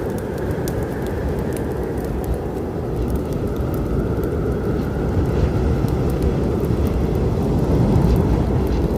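Deep, steady storm rumble, swelling slightly near the end, overlaid with the sharp crackles and snaps of a burning wood fire.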